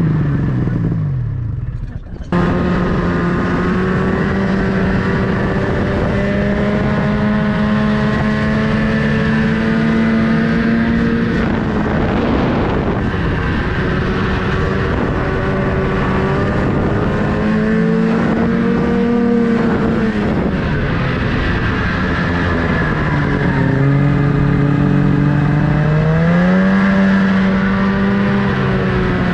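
Snowmobile engine running under way. Its pitch falls off at the start, with a brief dip about two seconds in. It then runs at a fairly steady speed with some rises and falls, and revs up again near the end.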